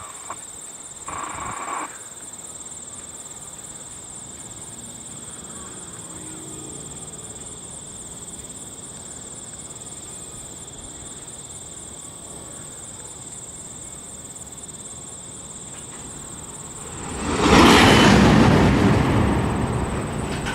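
Steady insect trilling with a brief sound about a second in, then near the end a loud rush of air rising suddenly and slowly fading: the stopped Canadian Pacific double-stack freight train's air brakes releasing, just before the slack runs through the train.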